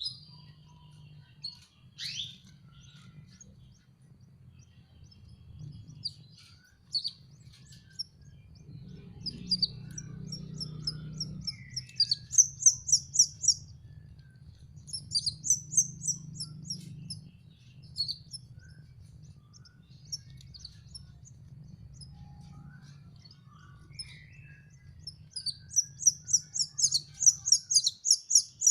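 Canary chicks begging, with runs of rapid high chirps that come in bursts of a second or two, the longest and loudest near the end.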